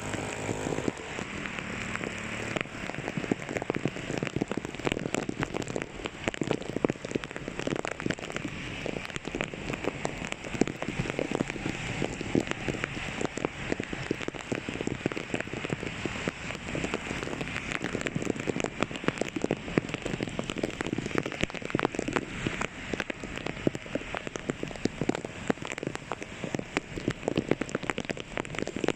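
Heavy rain falling: a steady, dense hiss made of countless small drop impacts.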